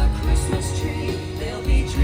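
Christmas fireworks show music playing over loudspeakers, with two low booms from fireworks bursting, the louder one near the end.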